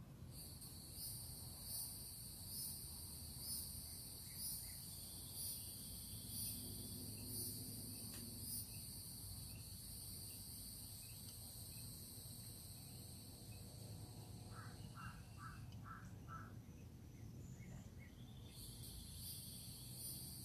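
Insects trilling steadily at a high pitch, with a faint pulse about once a second. The trill stops about three-quarters of the way through and starts again near the end. Just before it stops comes a short run of five quick lower notes, all over a low background rumble.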